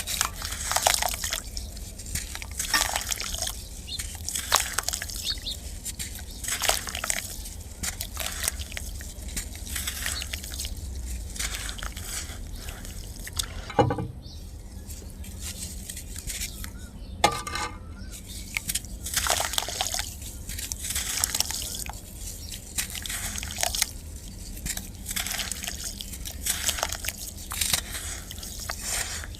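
Clumps of dry black sand crumbling and dropping into water: a run of short crunchy splashes at irregular intervals, with two sharper plops near the middle.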